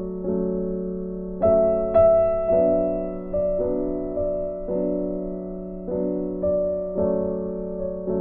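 Background piano music: sustained chords and notes struck about every half second to a second, each fading before the next.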